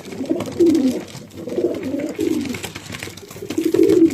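Racing pigeons cooing in a loft: several low, warbling coos one after another, the loudest near the end, with faint scattered clicks.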